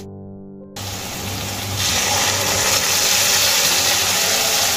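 Onion, ginger and cumin paste hitting hot oil over fried potatoes in a kadai: a sizzle that starts about a second in, swells loud about two seconds in and holds steady.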